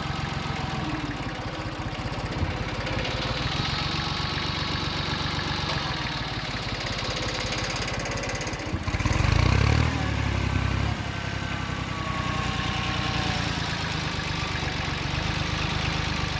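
Small tractor's engine running steadily, with a brief louder surge about nine seconds in.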